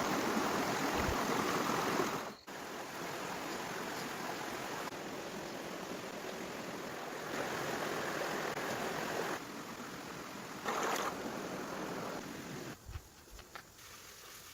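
Steady rushing water, heard in several short shots cut together, with a brief dropout about two seconds in and a few soft knocks near the end.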